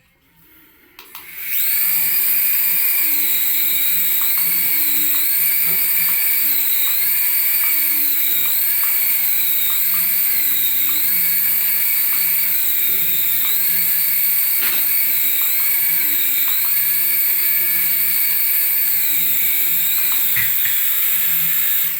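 Battery-powered toy running: a steady, high-pitched electric whine whose pitch wavers up and down about once a second. It starts about a second and a half in and cuts off at the end.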